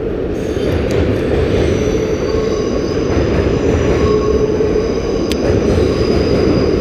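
Dutch NS passenger train crossing a steel railway bridge: a steady, loud rumble of wheels on rails with a sustained high wheel squeal over it. Extremely loud.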